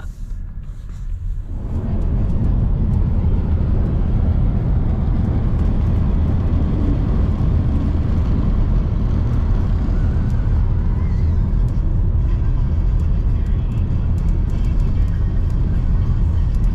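Steady road and wind noise of a moving car, a heavy low rumble that swells in about two seconds in and then holds.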